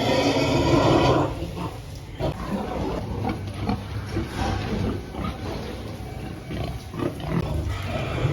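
Pigs grunting, with a loud, drawn-out call in the first second and then a run of short, irregular grunts over a steady low hum.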